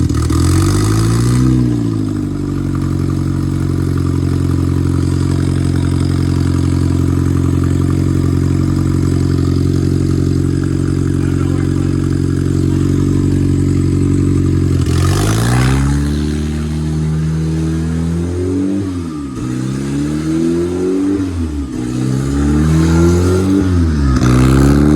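Honda K-series inline-four engine, swapped into a Toyota MR2 and freshly rebuilt, running. It rises and falls in a quick throttle blip, then idles steadily. About fifteen seconds in it is revved hard, then blipped up and down several more times.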